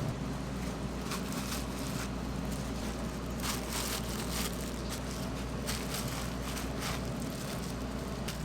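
Irregular crisp crackling and crunching from pork cutlets being worked on in the kitchen, over a steady low hum of kitchen machinery.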